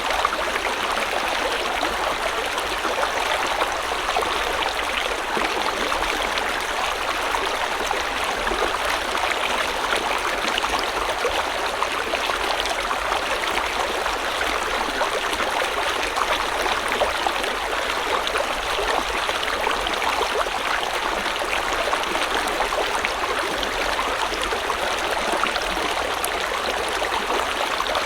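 River water flowing and rushing over stones, a steady, even babble.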